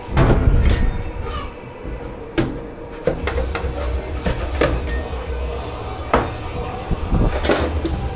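Dishes, pots and cutlery being handled at a dish pit: a dozen or so sharp clatters and knocks at irregular moments, over a low steady hum.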